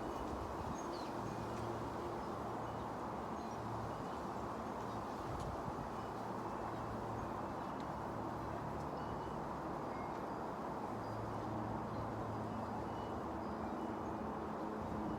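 Steady distant engine rumble with a low hum that comes and goes and grows a little louder near the end, with faint scattered tinkles of wind chimes.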